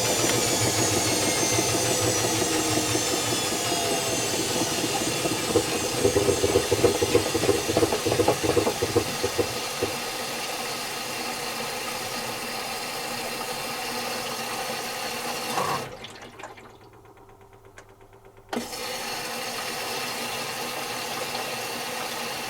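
Zanussi FC1000 compact washing machine running, its motor whine falling in pitch over the first few seconds, with a rattling stretch in the middle before it settles to a steady hum. The sound drops away sharply for a couple of seconds near the end, then the same hum returns.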